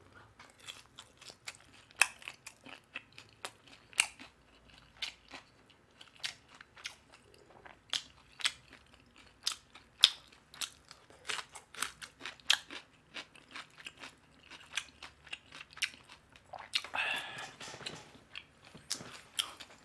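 Close-miked crunching and chewing of fried chicken, with sharp crisp crunches coming every half second or so throughout.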